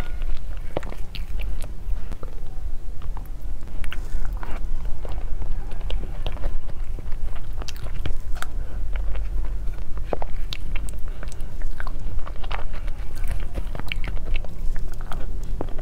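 Close-miked eating sounds of soft, fruit-filled mousse cake being chewed: wet mouth clicks and smacks scattered irregularly, over a steady low rumble.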